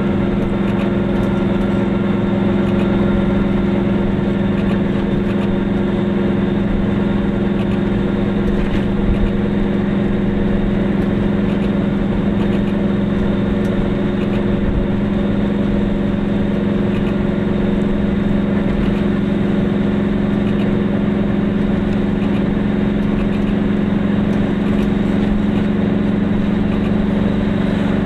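Goggomobil's small air-cooled two-stroke twin engine running steadily while driving at an even speed, its pitch holding level throughout, over tyre and road noise.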